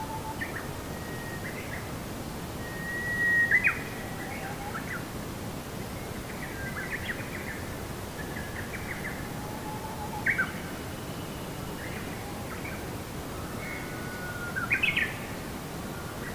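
Birds chirping and calling in short whistled notes that sweep up and down, with three louder bursts of calls spread through, over a steady background hiss.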